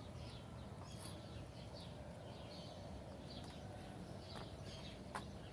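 Faint birds chirping in short scattered calls over quiet outdoor background, with a couple of light clicks, one about a second in and one near the end.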